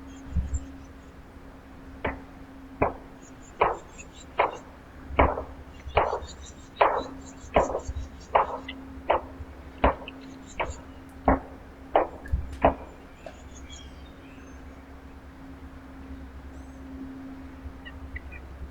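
A steady run of about fifteen sharp knocks, roughly one every three-quarters of a second, stopping a little past the middle. Faint high bird chirps come through alongside them.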